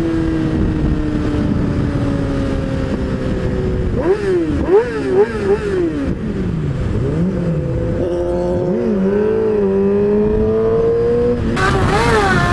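Yamaha R6 sportbike's inline-four engine running at speed under heavy wind noise on the helmet mic. Its pitch slides slowly down, then about four seconds in rises and falls quickly several times as the rider works the throttle and gears, before climbing steadily as the bike accelerates.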